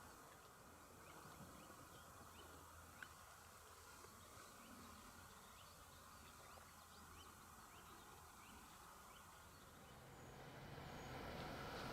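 Faint outdoor quiet with scattered small bird chirps. Near the end a train's rumble begins to grow as it approaches.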